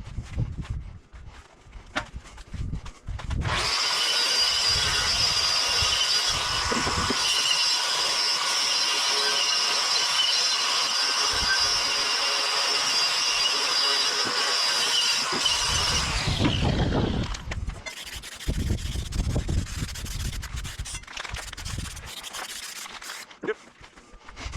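A handheld power tool runs steadily for about twelve seconds, then its pitch falls as it spins down after being switched off. Low rumbles and knocks come before and after it.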